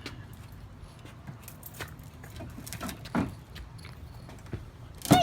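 Scattered light clicks and taps, with a sharper knock about three seconds in and a loud thump at the very end.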